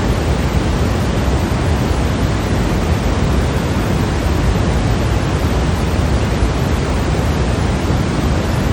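Steady synthetic white noise sleep sound: an even, unbroken hiss with no rhythm or change, heavier in the low end than the high.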